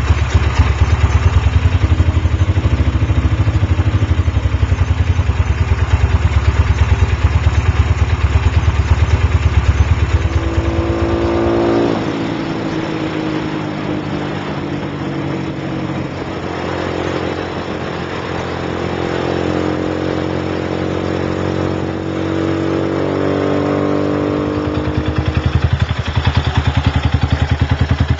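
Lifan LF200-B motorcycle engine running through an Iridium exhaust: idling with a steady pulsing beat, then picking up revs about ten seconds in and holding a higher note that slowly rises and falls, before dropping back to idle near the end.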